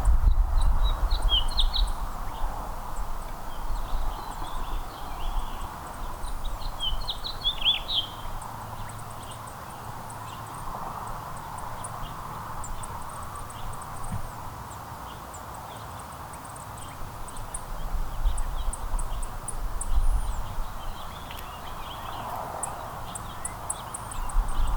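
Small songbirds chirping and twittering in short calls, in clusters about a second in and again near eight seconds, with fainter, high, ticking chirps throughout over a steady outdoor hiss. A low rumble sounds at the start and again near the end.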